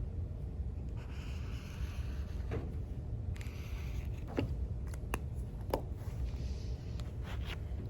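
Steady low rumble of room background noise, with a few short rustles and scattered light taps and ticks from desk work while studying.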